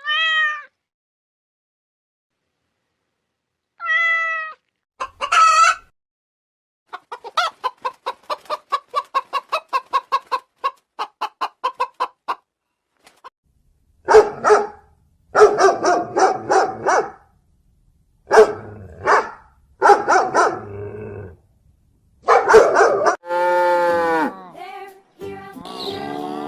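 Farm animal calls in a row: a cat meowing twice, then a run of short, even clucks at about four a second, then loud chicken calls, ending in a long rooster crow.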